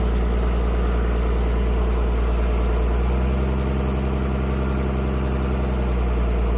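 Tractor engine idling steadily, its low hum shifting slightly in tone from about halfway through until near the end.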